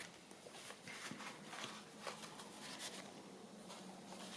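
Faint, scattered rustles and soft taps of paper and card being handled and sorted.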